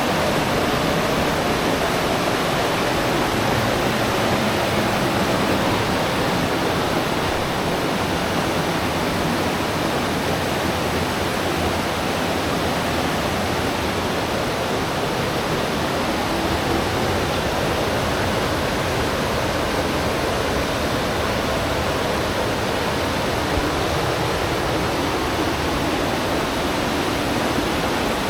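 Steady rushing of river water, an even, unbroken sound of flowing water.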